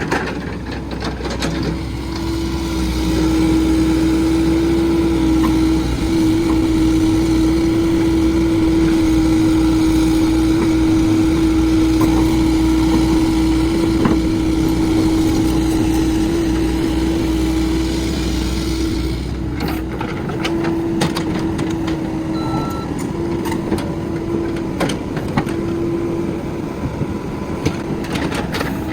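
Cat 308 mini excavator's diesel engine running steadily, with a strong constant hum. It gets louder about three seconds in and eases off a little near the end.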